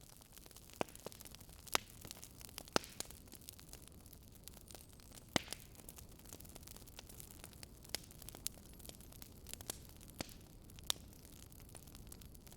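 Wood fire crackling: irregular sharp pops and snaps over a low steady hiss.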